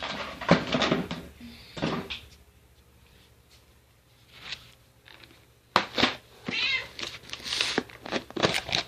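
A few knocks and rattles of kitchen handling in the first two seconds, then a domestic cat meowing several times from about six seconds in, begging for its kibble.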